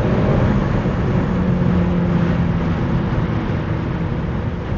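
BMW X6M's twin-turbo V8 heard from inside the cabin, through a valved sport exhaust with the valves open. Right at the start the engine note drops off the end of a rising pull, then settles into a steadier, lower drone that slowly gets quieter as the car eases off.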